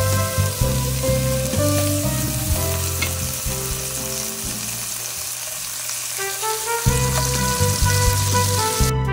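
Shrimp sizzling as they fry in oil in a frying pan, a steady hiss, under background music whose bass drops out for a couple of seconds midway.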